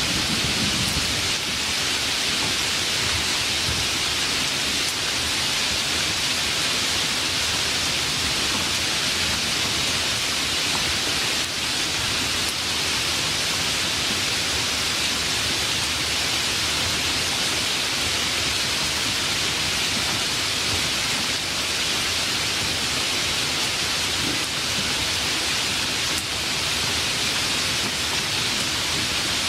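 Steady, dense hiss of heavy rain falling, even in level throughout. The last of a low thunder rumble dies away in about the first second.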